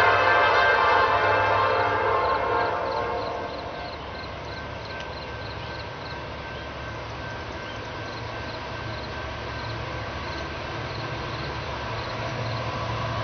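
A freight train's horn chord fades out over the first few seconds, and a grade-crossing bell keeps dinging at about two strokes a second. A steady low rumble of the train runs underneath.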